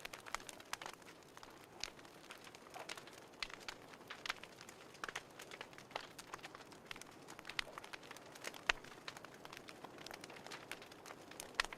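Wood fire crackling in a fireplace: irregular sharp pops and snaps over a faint hiss, with one louder pop near nine seconds in.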